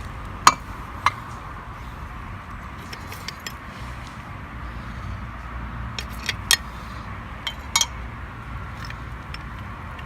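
Scattered sharp metallic clinks and taps, about six of them, as parts of a Copeland scroll compressor are handled during teardown, over a steady low background hum.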